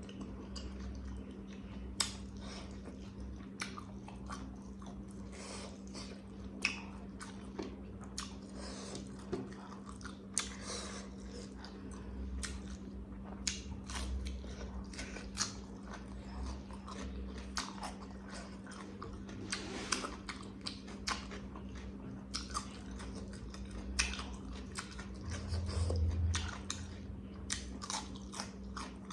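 Close-miked eating sounds: chewing and biting food, with many short irregular clicks and occasional crunches, over a steady low hum.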